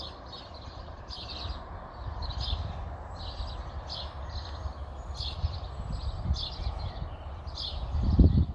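A goat's hooves clicking on pavement at a walk, about two steps a second, over a steady low rumble; a louder low thump near the end.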